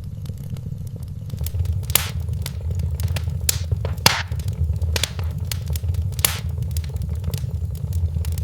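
Wood fire in a fireplace crackling, with a scatter of small snaps and a handful of louder pops over a steady low rumble of the flames.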